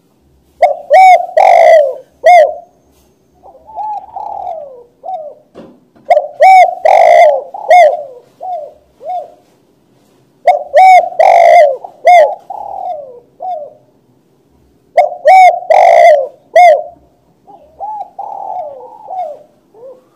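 Spotted dove (tekukur) cooing: four loud phrases about four seconds apart, each a few strong coos trailing into softer falling notes.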